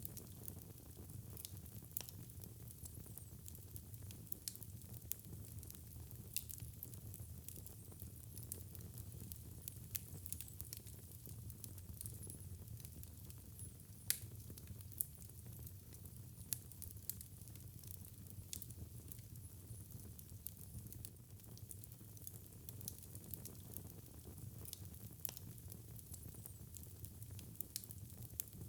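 Wood fire crackling in a fireplace: irregular sharp pops and snaps over a low steady rumble of the burning fire, with one louder pop about halfway through.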